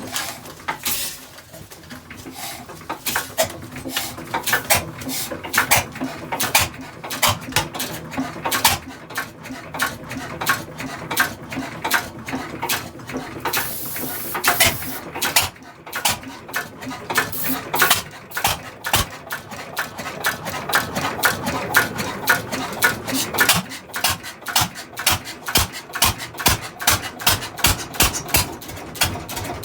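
Antique 4 hp side-shaft Mogul engine firing with sharp pops as it runs for the first time in over 60 years. The pops come unevenly at first and settle into a quicker, more even run near the end, with a brief hiss a little before halfway.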